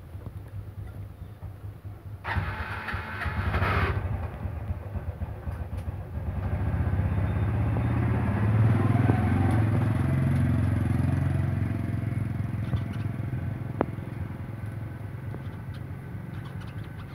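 A motor vehicle's engine, growing louder and then fading over several seconds as it passes. A short rasping noise comes about two seconds in.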